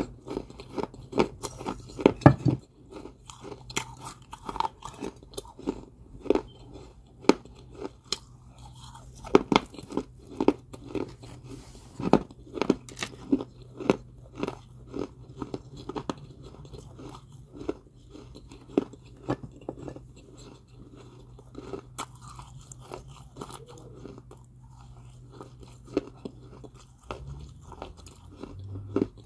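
Close-up chewing of crunchy balls of Georgia White kaolin clay: a continuous run of sharp crunches, densest in the first ten seconds, over a faint steady low hum.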